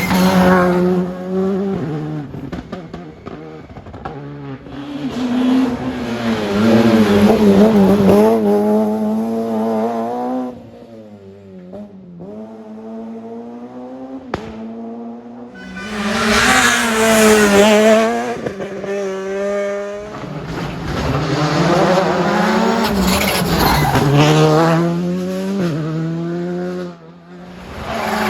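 Rally cars at racing speed on a special stage, their engines revving hard, with the pitch rising and dropping through gear changes. Several loud passes come one after another, with quieter stretches between them.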